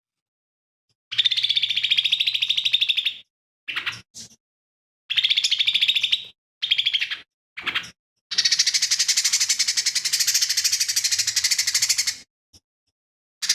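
Lesser green leafbird (cucak ijo mini) singing in fast, rattling, chattering phrases, its song laced with mimicked calls of other birds. A two-second phrase comes about a second in, then a few short bursts, then a long phrase of about four seconds from around eight seconds in.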